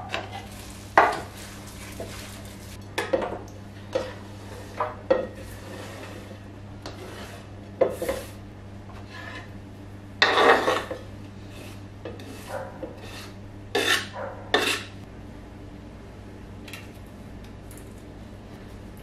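Kitchen clatter of dishes, pots and cutlery being handled and set down, in irregular knocks and clinks that stop after about fifteen seconds, over a low steady hum.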